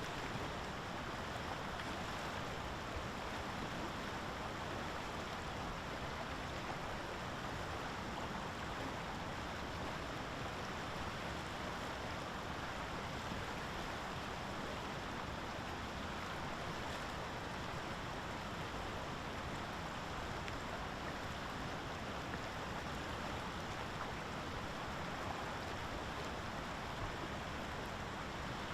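Steady, even outdoor rushing noise with no distinct events, only a couple of faint ticks.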